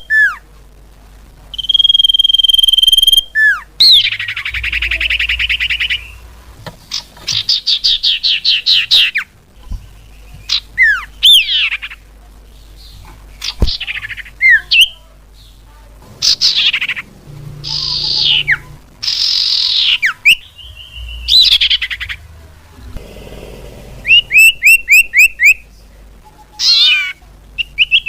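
Common iora (cipoh, locally called sirtu) calling: a long held whistle, a buzzy rattle, a fast trill and sharply falling whistled notes, then a run of quick rising chirps near the end, each phrase separated by short pauses. This is a lure recording used to draw the bird in.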